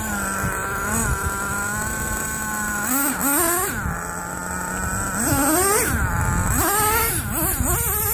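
Dynamite Mach 19 nitro engine of a Traxxas T-Maxx RC truck running steadily, then revving up in short bursts about three, five and a half, and seven seconds in, the pitch falling back after each. The transmission stays in first gear and does not shift into second.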